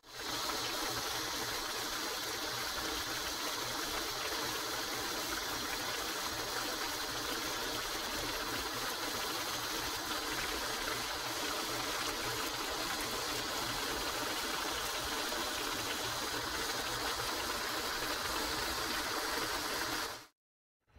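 Chicken pieces sizzling in hot oil and sauce in a wok: a steady, even sizzle.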